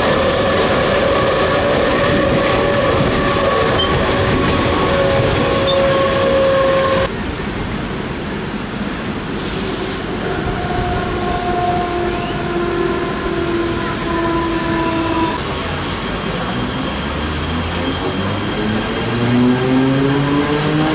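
Electric suburban train running, its motor whine slowly falling in pitch over a loud rumble of wheels. There is a short hiss about nine and a half seconds in, and near the end a motor tone rises steadily in pitch as something speeds up.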